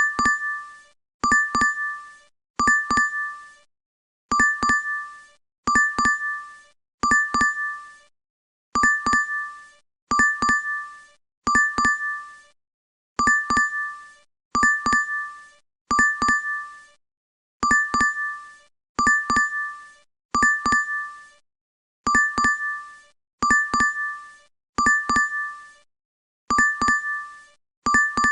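DoorDash app notification chime, a short bright double ding repeating about every second and a half.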